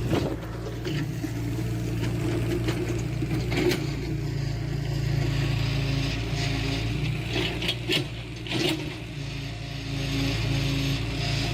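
Diesel engine of heavy earthmoving machinery running steadily, with sharp metal clanks now and then and a scraping, rattling noise in the second half.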